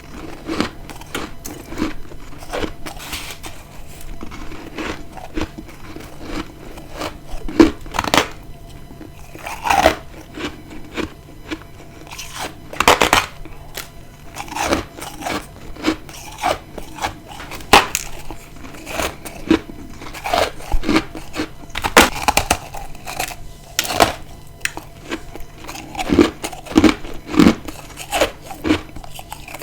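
Close-miked biting and chewing of ice or freezer frost: a long run of sharp crunches at irregular intervals, with several louder bites standing out. A faint steady hum runs underneath.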